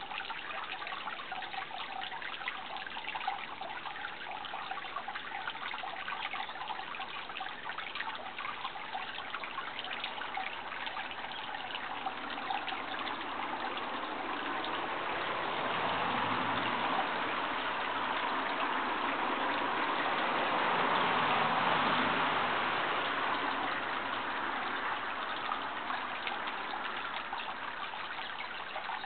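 Water trickling and running steadily, like a small stream, swelling louder for several seconds around the middle.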